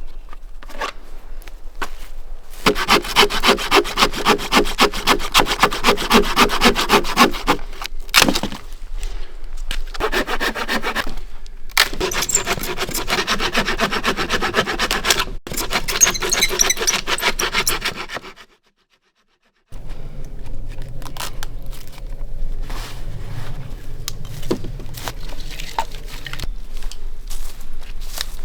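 Hand saw cutting through wood in runs of steady strokes, about four a second, with short pauses between runs. After a brief silence, quieter, irregular scraping and rubbing follows.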